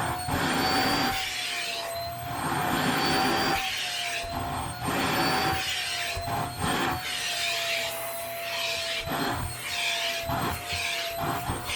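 Vacuum cleaner running on a cat-hair-covered blanket: a steady motor whine that wavers slightly in pitch, with a rush of suction noise that swells and falls as the nozzle is pushed back and forth in repeated strokes, roughly one a second.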